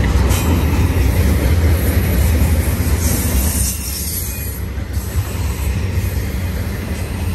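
BNSF intermodal freight train's container-laden well cars rolling past close by: a steady low rumble of steel wheels on rail with a hiss of wheel noise above it, easing slightly about four seconds in.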